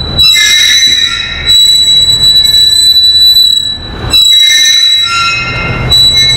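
Metal whining and screeching: a steady high-pitched whine with lower squeals that rise and fade in waves, over a low rumble. The loudness briefly dips about four seconds in.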